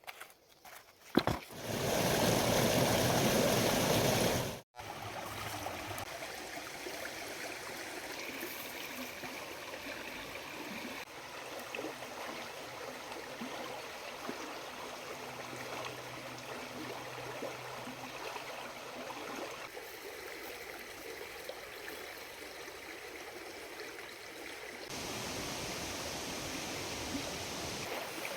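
River water running steadily in an even rush. A sharp knock comes about a second in, then a short, louder close rush of water that cuts off suddenly. The flow after the cut is softer and steady, growing louder again near the end.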